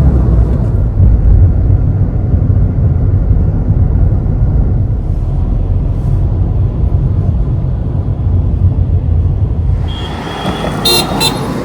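A car driving: a steady, loud low rumble of road and engine noise that eases off near the end, where a few sharp clicks are heard.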